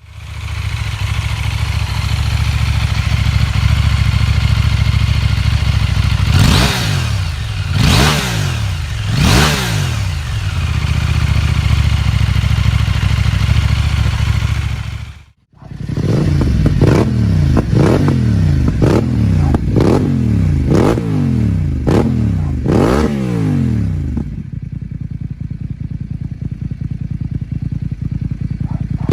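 Parallel-twin motorcycle engine pulling hard with wind rush, its pitch swinging up and down a few times. After a cut about halfway, the engine is revved up and dropped back over and over, about once a second.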